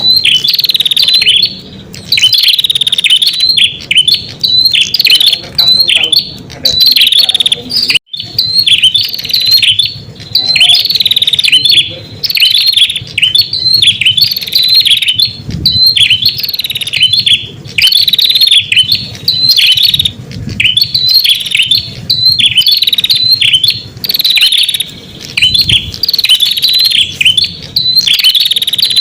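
Red-headed prenjak song: loud, quick chirping phrases repeated one after another with only brief gaps. It is a lure call used to draw in wild prenjak.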